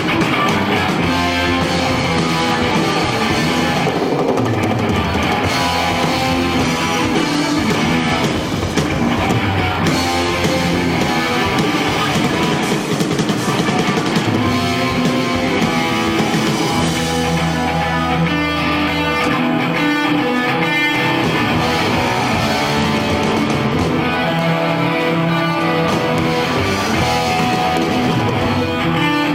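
Live rock band playing an instrumental passage: distorted electric guitars over bass and a drum kit.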